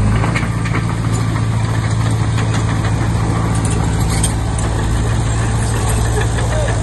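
Komatsu D20P bulldozer's diesel engine running at a steady speed, with scattered metallic clicks and rattles over it.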